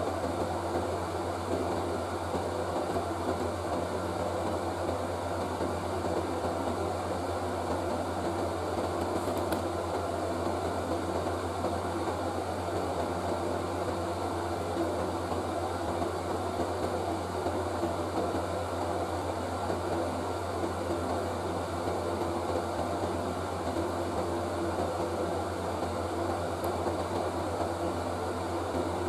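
Steady whirring of an electric fan or blower under a constant low hum, unchanging throughout.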